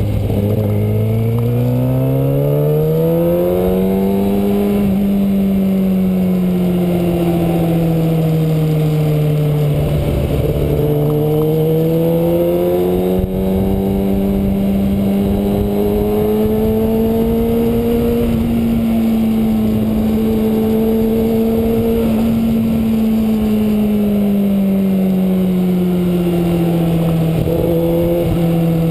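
Inline-four engine of a 2009 Kawasaki Ninja ZX-6R running under way, its pitch climbing through the first few seconds, dipping, climbing again and holding, then easing off and rising once more near the end. Wind rushes steadily over the microphone.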